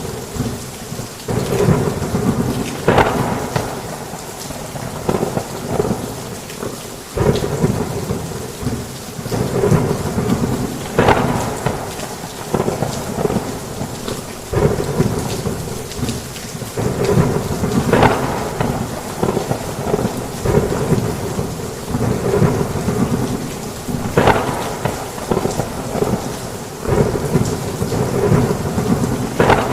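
Heavy rain pouring steadily, with thunder crackling and rumbling in frequent swells every second or two.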